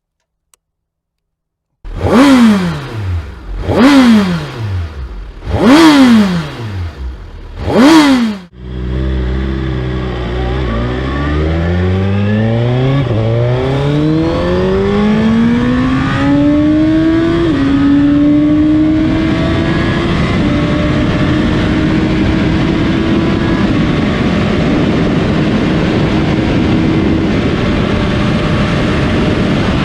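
2021 Suzuki Hayabusa's 1,340 cc inline-four engine revved sharply four times, about two seconds apart. It then accelerates hard through the gears, its pitch climbing and dropping at each upshift, and settles into a steady high-speed run.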